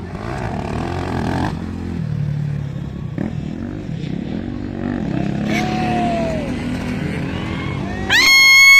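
Dirt bike engines racing on a motocross track, their pitch rising and falling as the bikes rev and pass. Near the end a very loud, high steady tone sounds for under a second.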